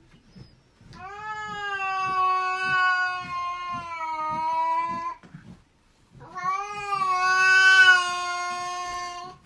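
Cat yowling in two long, drawn-out calls, the first about four seconds and the second about three, each holding a steady pitch with a slight wobble.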